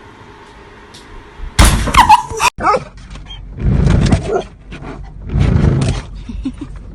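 A dog barking loudly in three outbursts, the first about a second and a half in, then two more.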